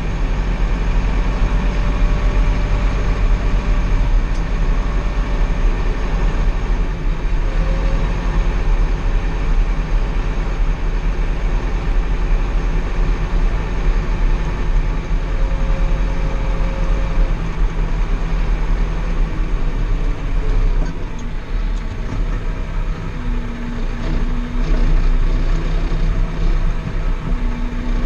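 Small four-wheel-drive Massey Ferguson tractor's engine running steadily with a low rumble as the tractor drives along.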